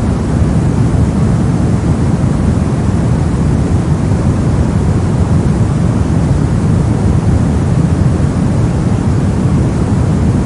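Steady soft noise: an even, unchanging deep rush, much heavier in the bass than in the treble, with no tones or events in it.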